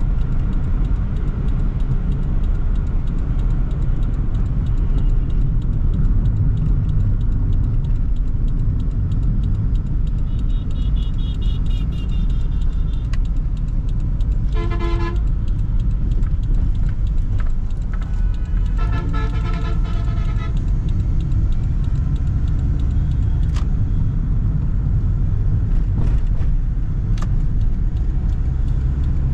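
Steady engine and road rumble inside a Toyota Sprinter AE110 while driving, with vehicle horns honking three times: a thin high horn about ten seconds in, a short blast around fifteen seconds in and a longer honk near twenty seconds.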